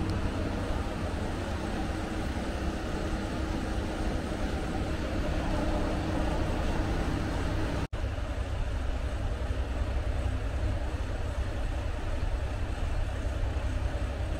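Sanriku Railway diesel railcar running, heard from inside the car: a steady low rumble of the engine and wheels on the track. A humming engine tone in the first half weakens after a momentary dropout a little past halfway.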